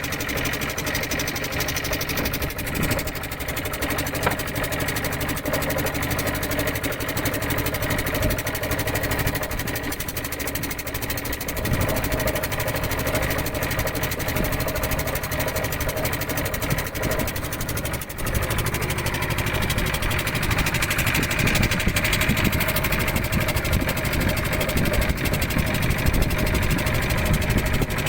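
A small fishing boat's engine running steadily under way, a continuous mechanical drone that gets a little louder about two-thirds of the way through.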